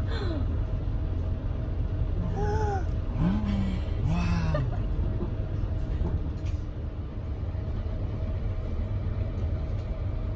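Passenger train running, heard from inside the carriage: a steady low rumble with a faint steady hum. A few brief voice sounds come between about two and five seconds in.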